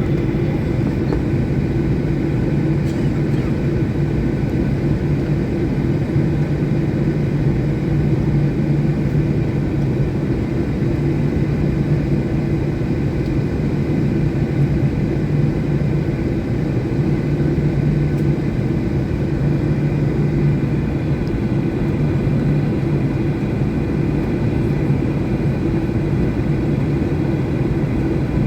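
Steady low rumble and hum inside the cabin of a Boeing 737-800, holding at a constant level.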